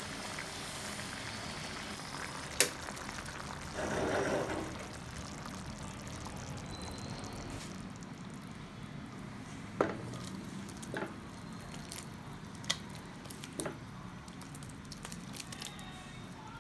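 Food cooking in a pan, with a steady bubbling hiss throughout. There is a brief louder rush about four seconds in, and a handful of sharp clicks and taps from utensils or cookware.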